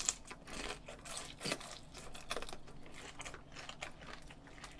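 Crispy fried chicken topped with Cheongyang green chili being bitten into and chewed: a string of irregular crisp crunches, the sharpest at the first bite.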